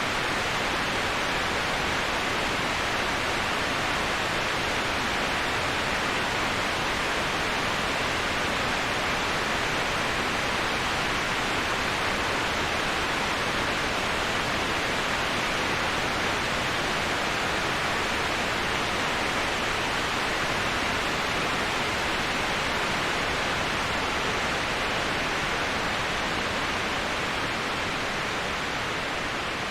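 Steady rush of a waterfall: an even, unbroken hiss of falling water, brightest in the upper-middle range. It eases down slightly near the end.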